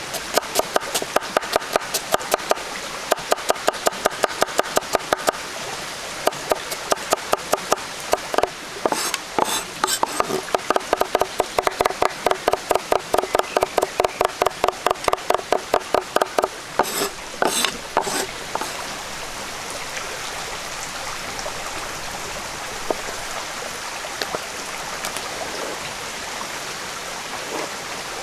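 A knife chopping on a wooden cutting board in rapid, even strokes, about three a second, with a short pause and a few harder strikes near the end. A steady stream of running water can be heard under it and after it.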